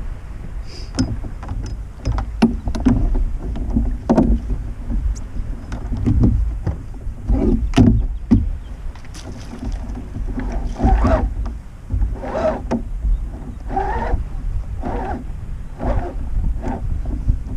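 Kayak paddle strokes splashing into the water, roughly every second and a half, over a steady low rumble.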